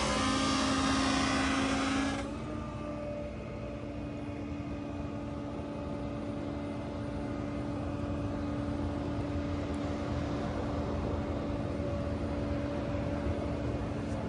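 Flatbed tow truck running with its hydraulics engaged: a steady mechanical hum while the car is winched onto the bed. A loud hissing rush over the first two seconds stops abruptly.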